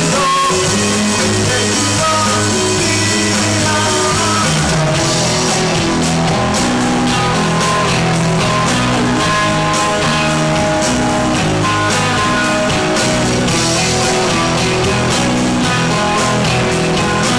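Rock band playing live: guitars and bass over a drum kit, with the drum strokes standing out from about five seconds in.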